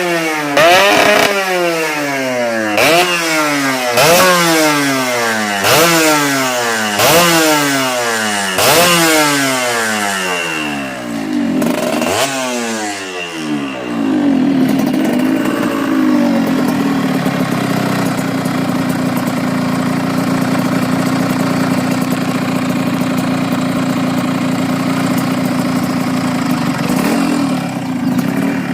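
Yamaha RXZ two-stroke single-cylinder motorcycle engine being blipped over and over, a quick rev up and fall back about every second and a half. After about thirteen seconds it settles into a steady idle.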